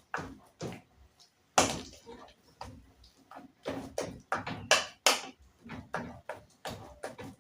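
Boiled potatoes being mashed with margarine by hand, the utensil knocking against the pot in uneven repeated strokes, about two a second.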